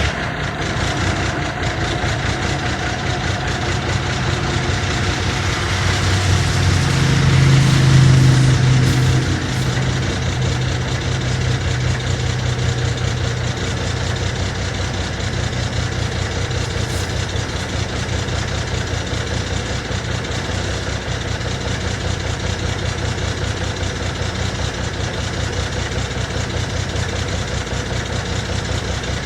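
1975 Kenworth LW924's diesel engine running just after start-up, swelling louder for a few seconds about six to nine seconds in, then settling to a steady idle.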